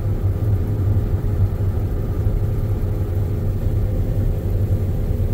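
John Deere X9 combine running steadily while harvesting canola, heard from inside its cab as a constant low hum and drone with a faint steady tone above it.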